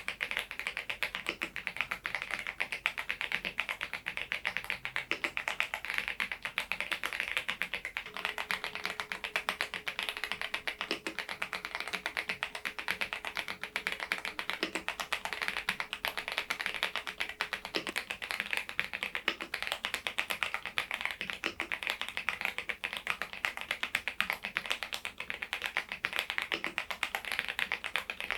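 Continuous fast typing on an AULA F99MAX mechanical keyboard fitted with Leobog Reaper switches, a dense stream of keystroke clicks.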